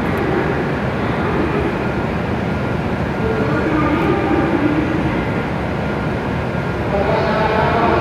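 E7 series Shinkansen train rolling slowly along the platform as it pulls in, a steady running rumble. A whine of several tones joins about seven seconds in as it draws to a stop.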